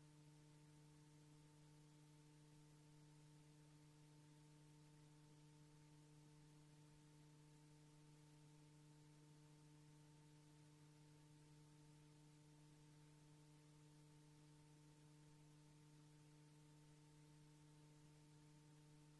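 Near silence: a faint, unchanging electrical hum of a few steady tones over tape hiss, with no other sound.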